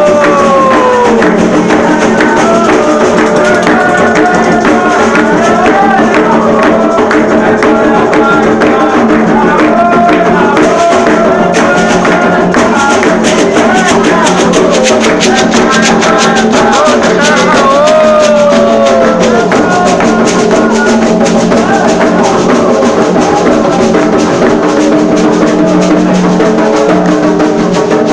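Candomblé ritual music: hand drums and rattles playing a dense, fast, unbroken rhythm, with voices singing over it.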